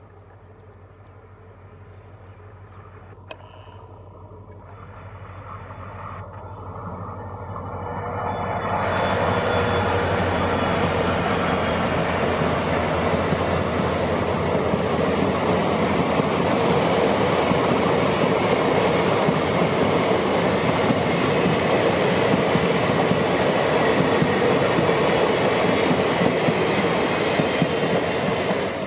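WDP4D diesel locomotive approaching, its sound building over about eight seconds, then the train of passenger coaches rolling steadily past on the rails.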